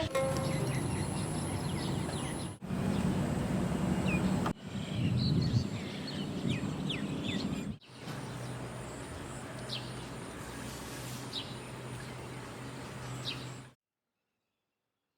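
Birds chirping in short calls over a steady rumble of city traffic, in a few takes that cut abruptly one to the next; the sound stops suddenly near the end.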